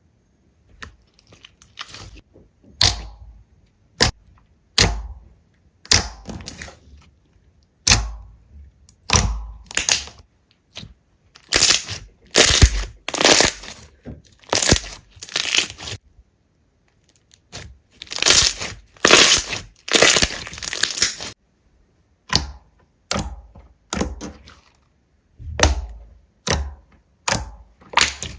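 Slime being squeezed and pressed by hand, giving crackling, popping sounds in short bursts about a second apart, with longer crackly stretches around the middle.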